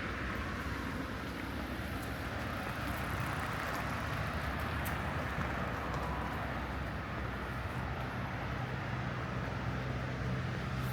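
City street ambience dominated by steady road-traffic noise, with a low engine hum of a vehicle growing louder in the last few seconds.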